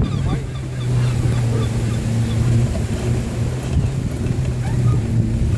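A steady low motor hum with wind rumble on the microphone during a bike ride, with faint bird chirps in the first couple of seconds.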